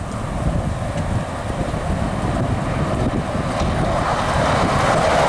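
Passenger train approaching on the line, its running noise growing louder over the last two seconds, with wind buffeting the microphone.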